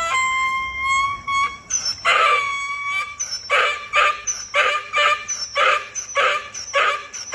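A dog howling: one long held note, then a rhythmic run of short howling yips about two a second.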